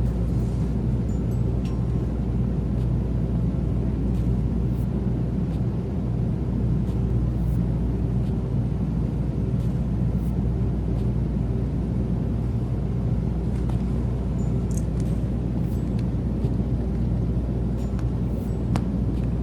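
Steady low rumble of a Sanyo Shinkansen Nozomi train running, heard from inside the passenger cabin, with a few faint clicks.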